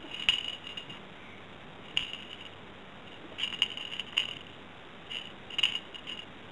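Light, sharp clicks and clinks in irregular little clusters, several times over a few seconds.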